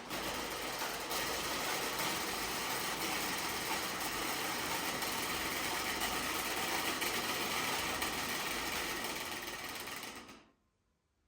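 Single-row split-flap display with its flaps flipping continuously: a dense, rapid clatter that stops abruptly about ten seconds in.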